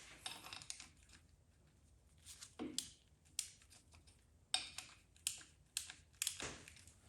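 Irregular sharp metallic clicks and taps of hand work on a small-block engine during camshaft removal, with a quiet spell between them about a second in and several louder clicks in the second half.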